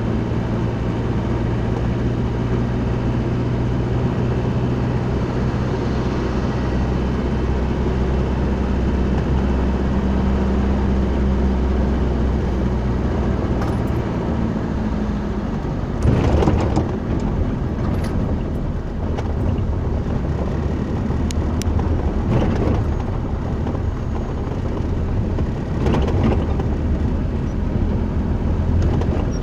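Motor vehicle running with a steady low engine hum and road noise; the hum changes about halfway through, and several sharp knocks or clatters follow.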